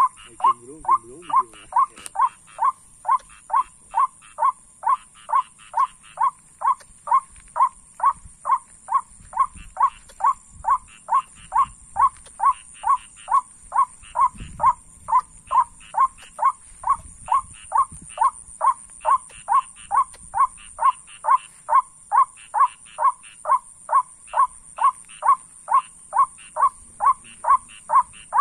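A lure call for white-breasted waterhens: one short call note repeated with machine-like regularity, about two a second. Under it is a steady high insect chorus.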